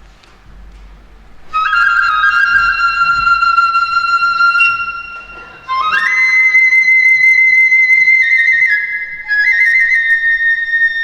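Bamboo kagura flute playing solo in long held high notes: one phrase begins about a second and a half in, breaks off briefly near the middle, and a higher phrase follows, stepping between a few pitches.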